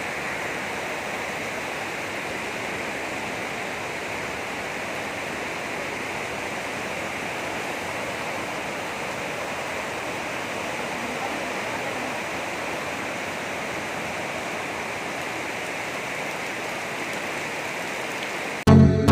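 Heavy rain falling as a steady, even rush of water noise, unchanging throughout and cutting off suddenly near the end.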